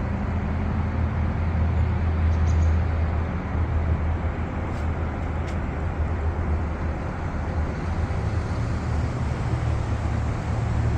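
Steady low rumble like a running vehicle, with even road-noise-like hiss and no change in pitch.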